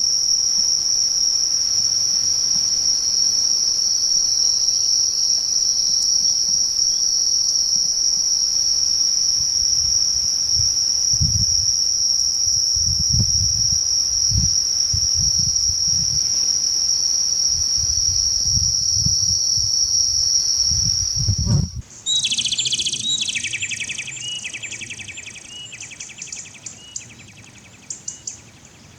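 A continuous high-pitched insect trill, held on one steady note, with low rumbles under it in its second half. About 22 seconds in it cuts abruptly to a quick series of repeated chirping notes that slow and fade away.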